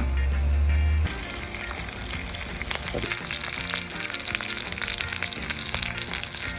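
Sea bream sizzling and crackling as it cooks, with many small sharp pops, starting about a second in as the music's bass drops away.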